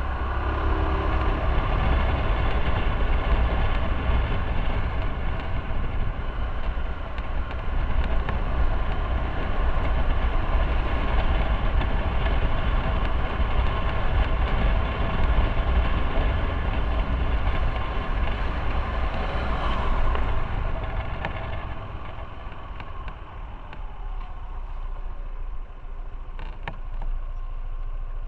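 Motorcycle engine running under way with wind rumble, the pitch lines of the engine steady; it eases off and gets quieter about twenty seconds in.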